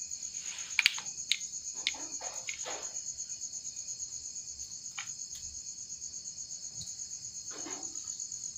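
Night insects chirping in a steady, fast-pulsing high trill, with a few faint clicks and soft rustles underneath.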